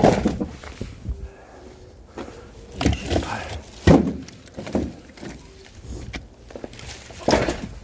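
Split firewood logs being handled and set down, several irregular wooden knocks and scrapes with footsteps and shuffling between them.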